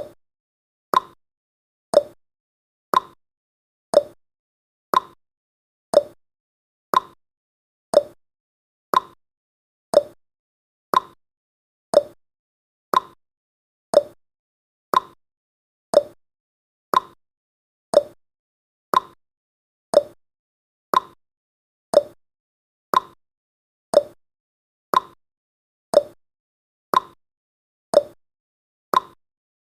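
Countdown timer's ticking sound effect: one short, sharp tick exactly every second, with silence in between.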